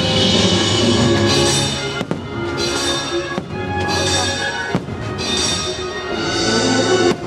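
Show music playing loudly while fireworks go off, with about four sharp bangs from bursting shells spread through the music.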